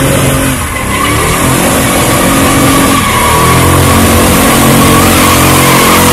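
A muscle car's engine revving hard, with a deep rumble and rising pitch, growing louder toward the end.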